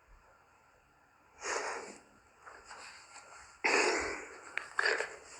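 Several short, breathy, hissing bursts, like heavy breathing or snorting. They begin about a second and a half in, and the loudest comes a little before two-thirds through.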